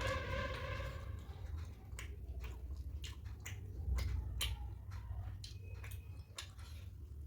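Close-miked chewing of poori with curry: wet mouth sounds with scattered short clicks and smacks.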